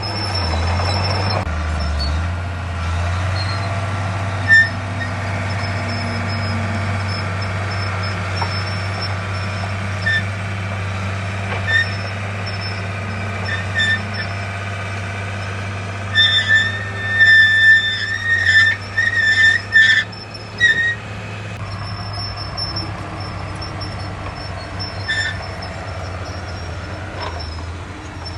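Diesel engine of a crawler bulldozer running steadily under work, with repeated high-pitched squeals from its steel tracks, the squealing loudest and most frequent from about 16 to 21 seconds in.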